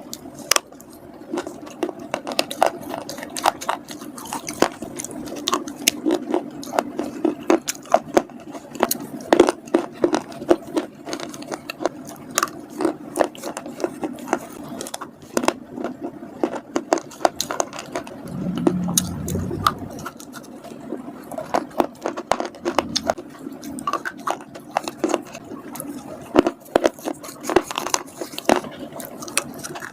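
Close-up crunching of slate-pencil chips and grooves being bitten and chewed, a dense run of sharp, irregular cracks several times a second. About two-thirds of the way through, a brief low hum sounds under the crunching.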